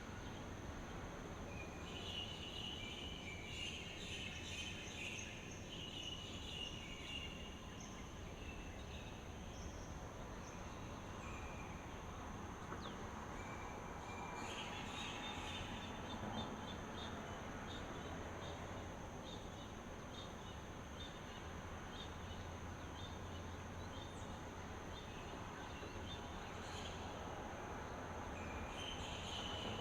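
Outdoor ambience of a steady, high-pitched insect drone over a low background rumble, with birds chirping in several bursts, about two seconds in, around the middle and again near the end.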